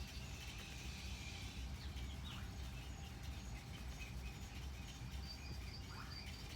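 Wetland ambience with birds calling: scattered short high chirps, and a quick run of repeated notes near the end, over a steady low hum.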